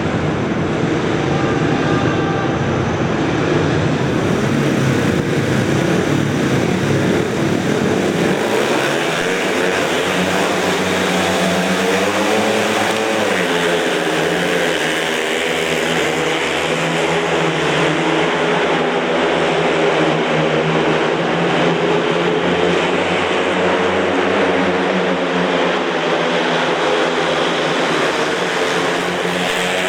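Speedway motorcycles' 500cc single-cylinder methanol engines racing together. A dense roar comes first, then engine notes rising and falling as the riders throttle on and off around the track.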